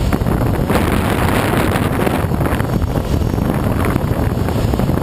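Loud, steady rush of airflow in a Schweizer SGS 2-33A glider's cockpit in flight, with wind buffeting the microphone.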